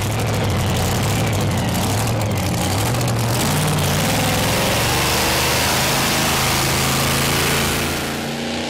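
Two-wheel-drive pulling tractor's racing engine running loud and rough at the start of a pull, a slow start off the line. Its pitch steps up about three and a half seconds in, and the level eases a little near the end.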